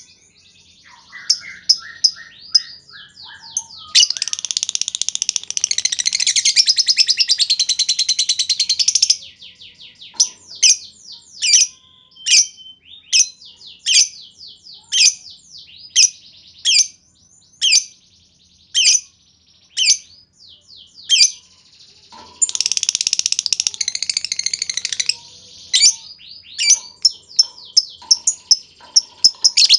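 Lovebirds calling: two long, dense, high-pitched chattering trills (the 'ngekek'), with runs of sharp single chirps about twice a second in between and quick ticking chirp series at the start and end.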